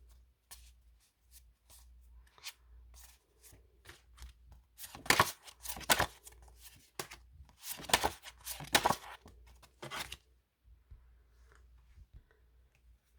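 A stack of paper postcards being flipped through one by one: a run of light card clicks and flicks, with two louder bursts of card-and-paper rustling about five and eight seconds in.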